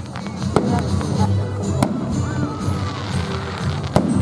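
Aerial fireworks going off: three sharp bangs, about half a second in, near two seconds and near the end, over a continuous low rumble of the display.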